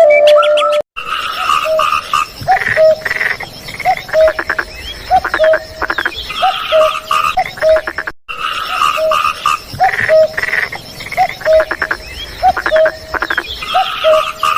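A chorus of frogs calling, with short rising calls repeated about twice a second over rapid rattling croaks and a steady high tone. It breaks off for an instant about eight seconds in.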